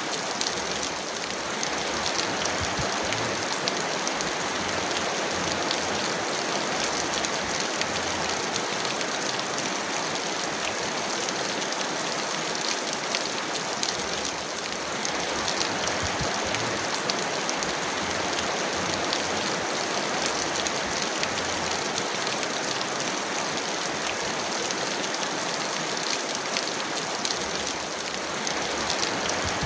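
Heavy rain falling steadily: a dense, even hiss of rain peppered with the fine crackle of individual drops.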